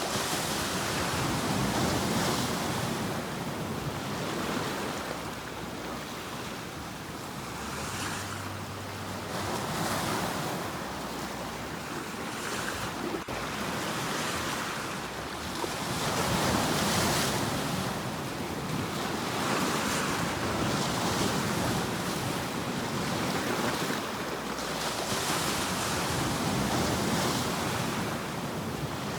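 Ocean waves washing onto a shore as a continuous surf that swells and eases every few seconds.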